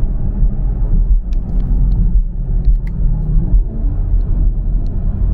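Car engine pulled hard under full throttle, heard from inside the cabin, its intake noise loud through a cold air intake with the sound tube removed; the engine note dips briefly about two seconds in.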